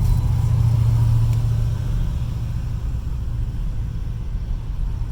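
A vehicle engine rumbling low and steady, loudest in the first two seconds and then easing off.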